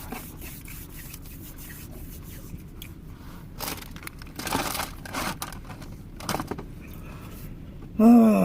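Crinkling and rustling of a chip bag being handled to get at the last crumbs, in uneven bursts. Near the end a brief, louder vocal sound falls in pitch.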